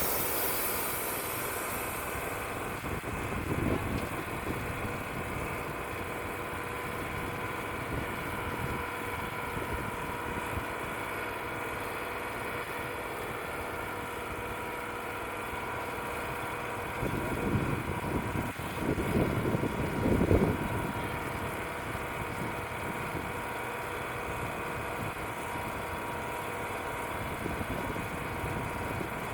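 Wood-Mizer LT35 portable sawmill's engine running steadily. Gusts of wind buffet the microphone with a low rumble, briefly about three seconds in and more strongly for a few seconds past the middle.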